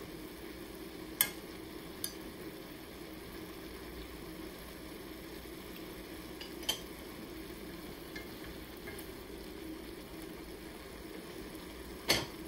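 Sautéed purple cabbage and mushrooms frying in a stainless steel skillet with a soft, steady sizzle. A few short sharp clicks sound over it, the loudest near the end.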